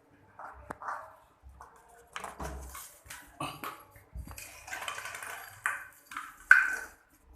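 A small dog playing with a bottle: irregular rustling, clicking and knocking as the bottle is pushed, bitten and dropped. A sharp knock about six and a half seconds in is the loudest.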